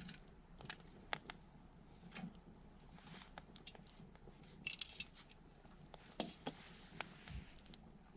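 Wood campfire crackling: scattered small pops and snaps from the burning wood over a faint hiss, with a quick run of crackles about five seconds in.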